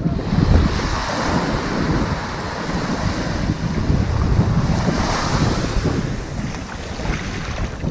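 Ocean waves breaking and washing up onto a sandy beach: a continuous surf wash that swells to a peak about five seconds in, over a low rumble of wind on the microphone.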